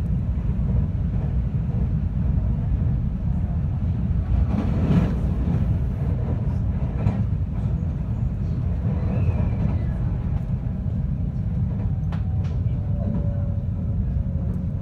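JR West 521 series electric train running on the Hokuriku Main Line, heard on board: a steady low rumble of wheels on rail with a few sharp clicks. Near the end a thin whine comes in and slowly falls in pitch.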